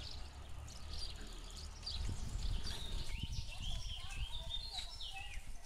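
Birds chirping, then singing in rising and falling phrases, over a steady low rumble; the background changes abruptly about three seconds in.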